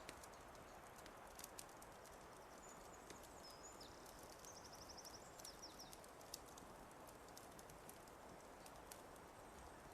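Faint wood fire crackling, with scattered sharp pops over a soft steady hiss. A small songbird sings high, thin notes from about two and a half seconds in, ending in a quick trill a little after five seconds.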